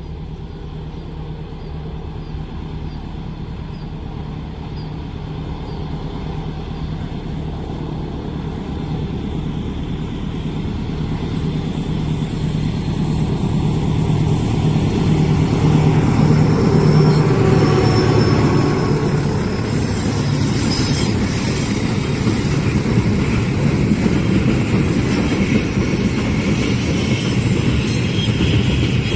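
Diesel locomotive approaching on an Indonesian main line, its engine note growing louder until it passes just past halfway through. After that come the steady rumble and clatter of the train's wheels on the rails as the carriages go by.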